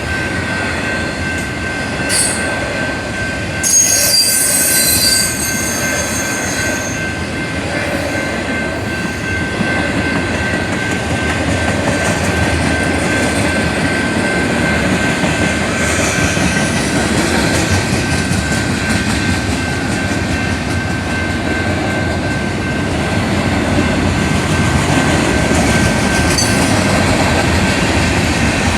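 Freight train cars rolling past, a steady rumble of wheels on rails with a thin high tone running through it. About four seconds in comes a brief, sharp metallic squeal of wheels on rail.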